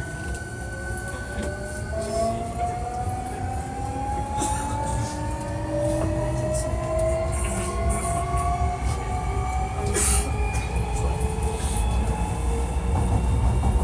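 Hankyu 1300 series electric train running under power, its traction motor whine sounding as several tones rising steadily in pitch as the train gathers speed, over the rumble of the wheels on the rails. The rising whine is this car's unusual acceleration sound; the car is known for it.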